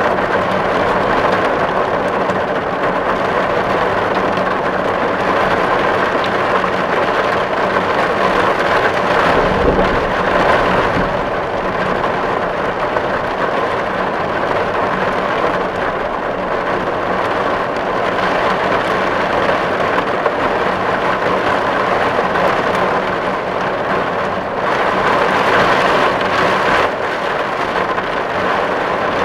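Steady rain drumming on a tin roof, a dense even patter of drops on metal, with a brief low rumble about ten seconds in.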